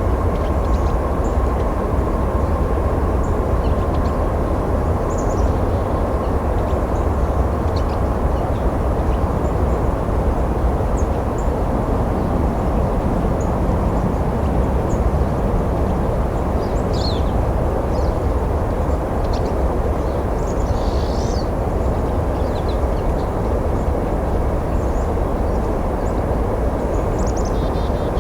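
A passing train rumbling steadily, with pine siskins calling and singing over it in short, thin, high chirps that come more often in the second half.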